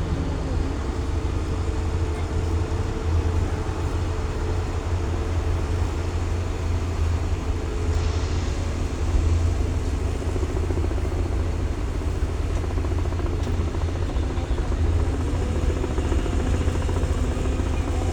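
Tractor engine running steadily, with a heavy low rumble and a faint steady hum above it.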